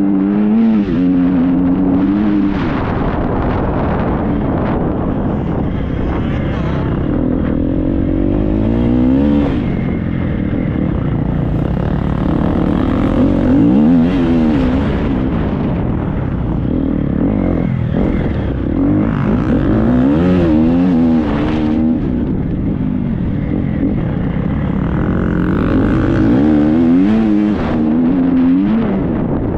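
Triumph 250 motocross bike's four-stroke single-cylinder engine revving up and down over and over as it is ridden hard off-road, the pitch climbing and dropping every second or two, with wind buffeting and knocks from rough ground.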